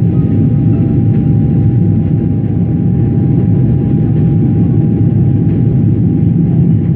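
Boeing 777 jet engines and airflow heard inside the cabin as a steady, loud low rumble, with a faint steady whine above it, as the airliner climbs out after takeoff.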